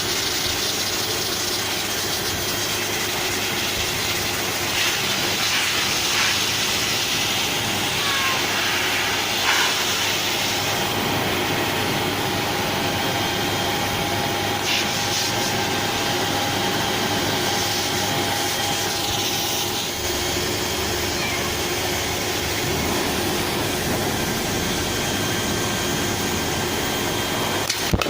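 Hair dryer running steadily: a continuous rush of blown air with a faint steady whine, the hiss turning brighter a few times.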